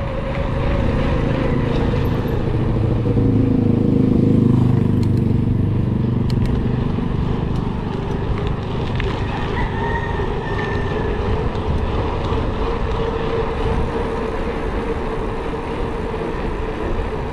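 Steady wind and road rumble from riding, with a motor vehicle's engine passing close by and loudest about four seconds in.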